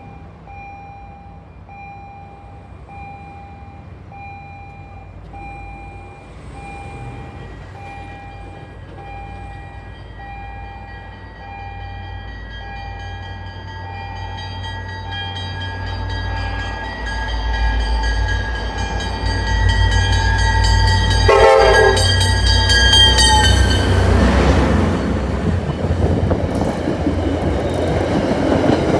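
MBTA commuter train approaching and passing: a bell rings in even pulses, about two a second, while the diesel locomotive's horn chord grows louder as the train nears, and the locomotive's engine rumble builds beneath it. The horn stops a little after three-quarters of the way through, and the loud noise of the train going by follows.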